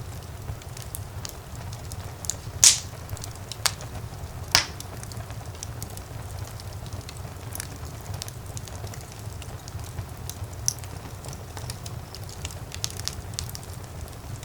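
Fire crackling in a fireplace: a steady low rumble of the flames with scattered small pops and ticks, and two sharp, loud pops about two and a half and four and a half seconds in.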